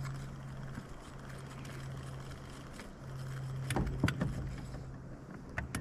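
Electric trolling motor humming steadily, cutting out briefly and coming back on, with a few sharp knocks against the boat around the middle and near the end.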